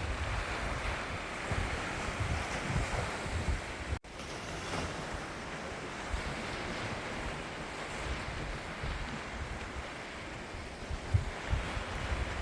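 Sea surf washing in, with wind buffeting the microphone; the sound breaks off for a moment about four seconds in.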